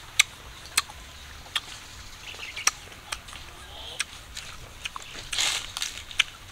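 Crisp crunches of raw young green mango being chewed, sharp and spaced roughly a second apart, with a short rustling scrape a little after five seconds and faint bird calls behind.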